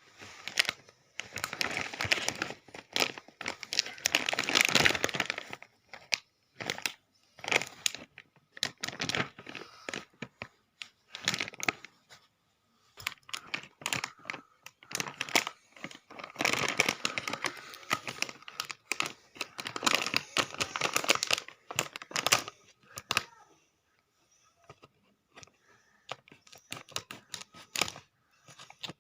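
Lay's potato chip bag crinkling and rustling as it is handled, in loud bursts of crackly rustling with quieter spells between.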